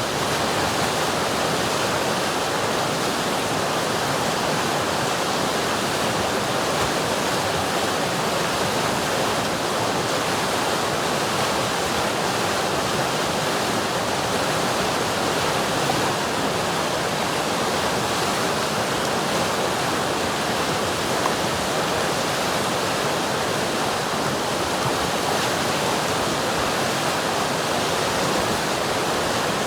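River water rushing in a steady, even flow, with no breaks or changes.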